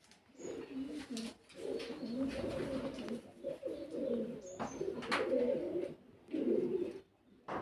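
Birds cooing in low, warbling phrases, almost without a break, with a few short high chirps and sharp clicks mixed in.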